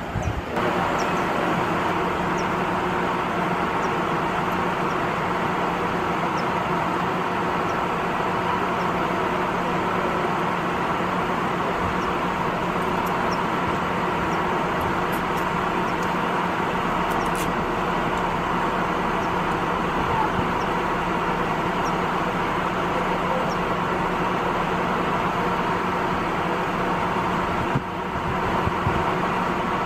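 Steady mechanical engine drone with a constant hum, holding level throughout.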